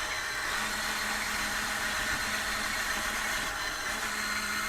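Radio-controlled toy construction machine running: a steady mechanical hum.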